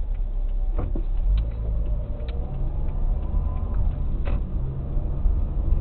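Car driving: a steady low engine and road rumble, with a few faint clicks.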